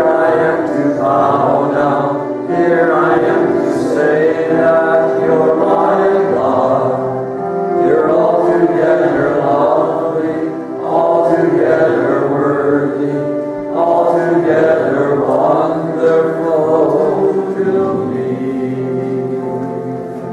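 A group of voices singing a hymn together with instrumental accompaniment, sung in phrases over steady held notes and easing off toward the end.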